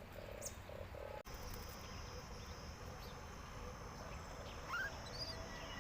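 Outdoor ambience: short low pulsed calls, then a steady high insect drone that sets in after an abrupt cut about a second in. A short rising bird chirp comes near the end.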